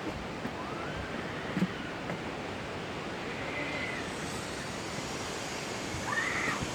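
Waterfall water rushing in a steady, even roar of noise. A few faint, short, arching high tones sound over it, about a second in, midway, and near the end.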